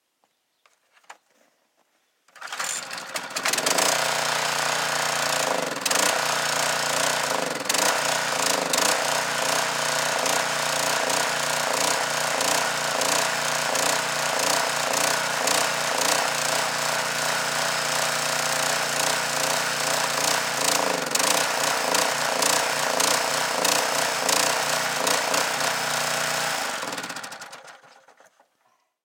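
Small gasoline engine of a go-kart mower running steadily in the cold. It comes in about two seconds in and dies away near the end.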